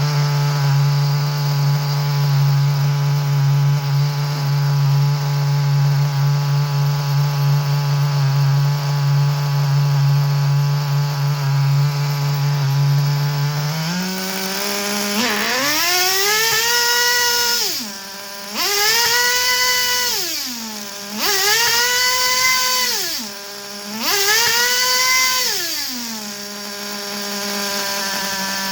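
Small two-stroke nitro engine (O.S. 12CVR) of a Kyosho V-One R RC touring car running steadily at a low, even pitch, then, about halfway through, revved four times, each rev climbing to a high pitch, held for a moment and falling back.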